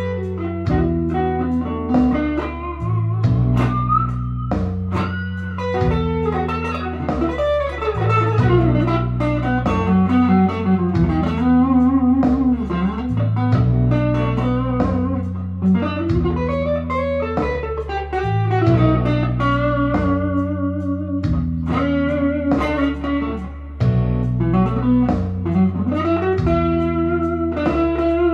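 Firefly FFST electric guitar played on a clean tone: a bluesy lead line with string bends over a repeating backing of bass and chords.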